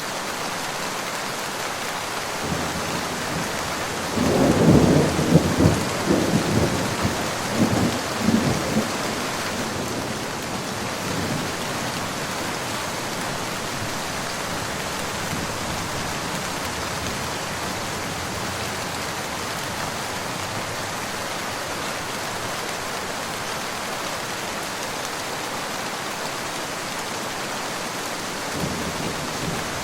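Steady rain falling, with a roll of thunder rumbling from about four seconds in to about nine seconds, and another rumble building near the end.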